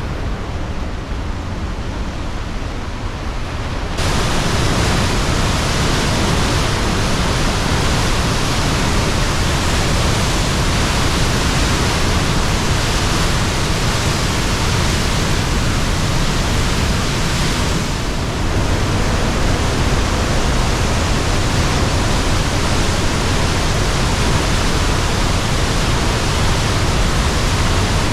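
Heavy rush of high water pouring through the Belton Lake Dam spillway after rain, a steady loud roar of water. It gets suddenly louder about four seconds in.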